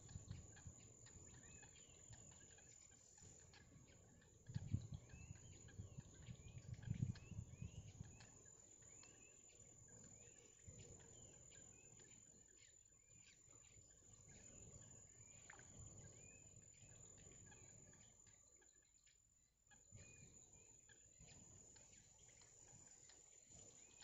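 Faint, high birds' chirps repeated over and over, with a steady high whine behind them. A few low rumbles come about five and seven seconds in.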